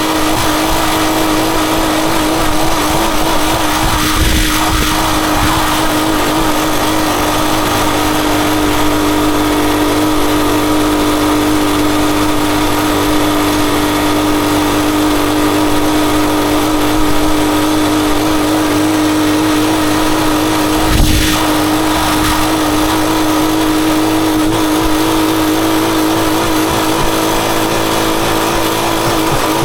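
Rusi Chariot 175 motorcycle engine running at a steady speed while riding, under a constant rush of wind noise. There is a brief low thump about four seconds in and another about 21 seconds in.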